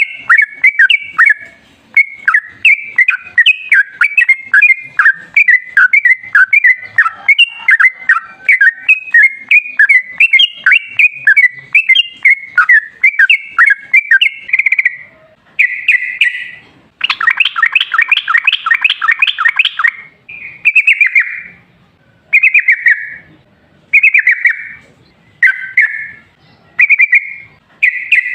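Yellow-vented bulbul (trucukan) singing: a long, dense run of bubbly chattering notes for about fourteen seconds. About two-thirds of the way through comes a fast rattling series of sweeping notes, and after that short phrases repeat about every second and a half.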